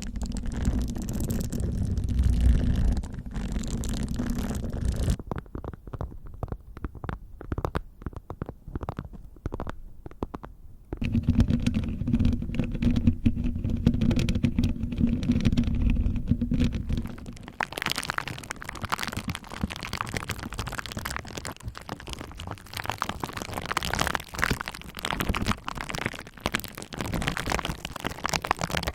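Close-miked ASMR sounds. First comes low, muffled rubbing right against the microphone, with a stretch of sparse light taps in the middle. About two-thirds of the way through, it changes to dense crackling and popping of bubble wrap being pressed with a roller.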